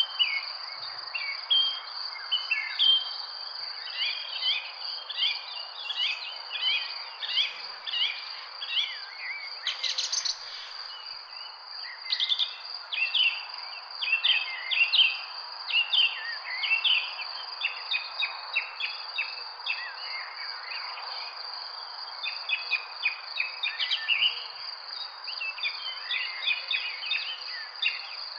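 Many small birds chirping in dense, overlapping bursts of short falling notes, thinning out twice, over a steady high-pitched insect trill.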